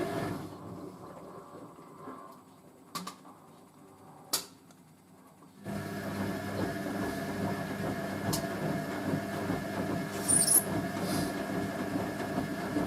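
Hoover A3060 Electronic 1100 washing machine on its deep level rinse: the drum stops turning for a few seconds, with two sharp clicks in the pause, then the motor starts again about six seconds in and the drum turns steadily with a hum, tumbling a heavy, water-laden sofa throw.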